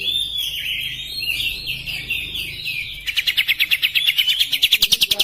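Oriental magpie-robin (kacer) singing: a warbling phrase, then from about three seconds in a rapid rattle of sharp notes at about ten a second.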